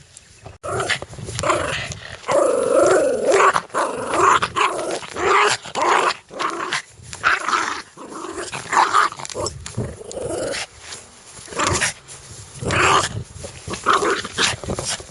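Dog growling aggressively in repeated surges, starting abruptly about half a second in.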